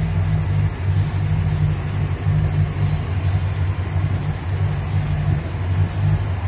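V8 engine idling after being revved, a steady low rumble that pulses slightly and unevenly.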